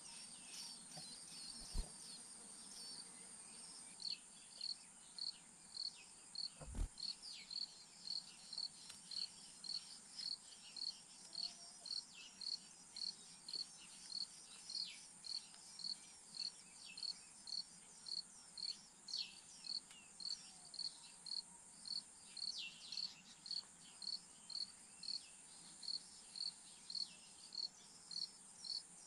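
Insect chorus: a steady high-pitched drone with a regular pulsing chirp about twice a second that starts about four seconds in, mixed with scattered short falling chirps. Two soft thumps near the start are the loudest moments.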